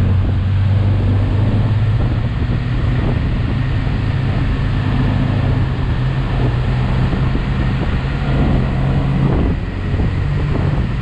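Motorcycle engine running under way, its note shifting up and down with the throttle, with wind buffeting the microphone. The engine eases off briefly near the end.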